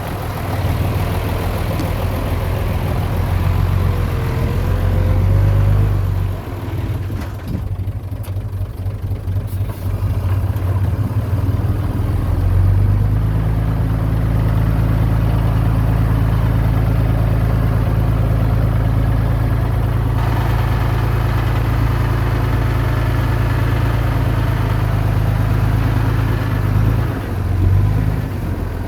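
Bulldozer's diesel engine running as it works, easing off for a few seconds partway through, then holding a steady low drone until it drops away near the end.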